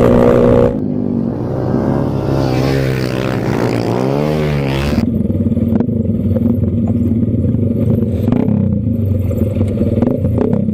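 Wavering tones that bend up and down in pitch for about the first five seconds. After a sudden change, a motorcycle engine runs steadily with light clatter and clicks.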